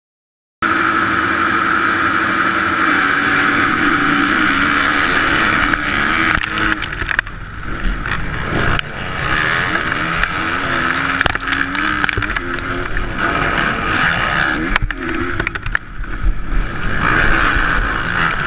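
Motocross bike engine racing, its pitch rising and falling repeatedly as it revs up and backs off, with loud rushing noise and several sharp knocks. The sound cuts in suddenly just after the start.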